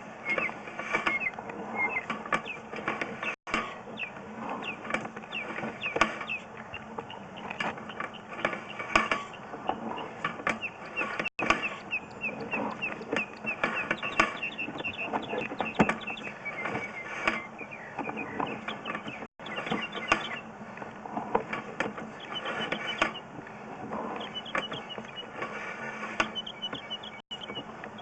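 Sewer inspection camera's push cable being pulled back out of a vent stack and fed onto its reel: a continuous run of quick squeaks, clicks and rattles.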